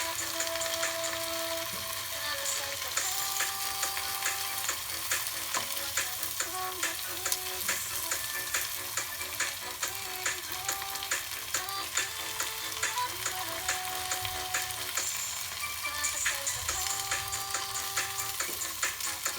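Food crackling and sizzling as it fries in hot oil, a steady dense crackle, with background music playing over it.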